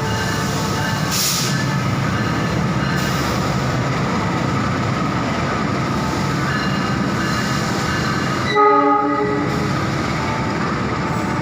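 Malabar passenger train rolling into a station: a steady rumble with high, thin wheel or brake squeals coming and going, and a short horn blast of about a second, about eight and a half seconds in.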